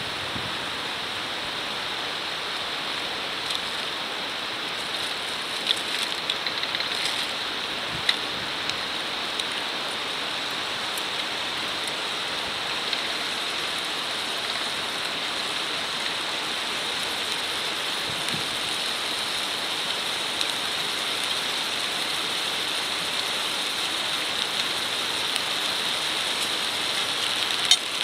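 Wood fire burning with a steady hiss and occasional sharp crackles and pops, more of them near the end.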